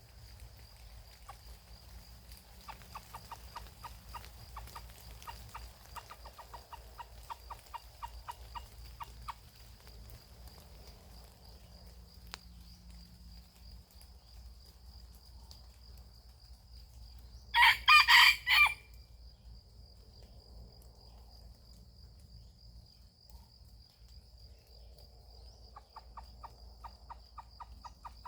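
Junglefowl rooster giving one loud, short crow in several broken pulses about two-thirds of the way through. Runs of rapid clucking come before it and again near the end.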